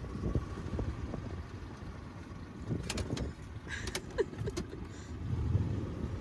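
A vehicle driving over rough ground: a low, uneven rumble, with a handful of sharp clicks and rattles about halfway through.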